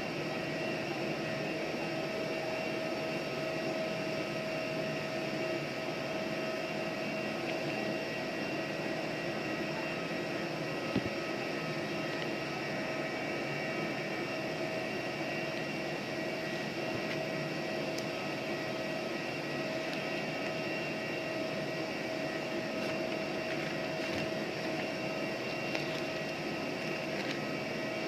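Jet aircraft turbine running steadily on the ramp: an even hum with a steady high whine. There is a single short click about 11 seconds in.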